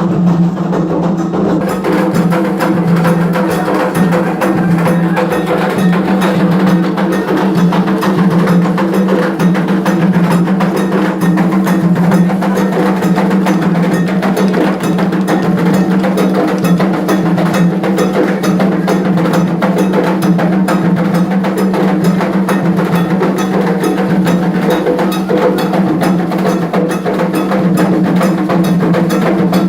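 Candomblé ritual percussion: drums and a struck bell played in a fast, steady, unbroken rhythm.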